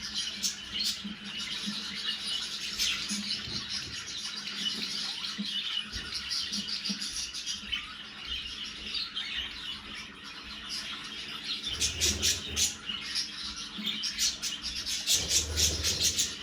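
Budgerigars chattering: fast warbling chirps and sharp clicks that grow louder and busier in the last few seconds, with a couple of low bumps near the end.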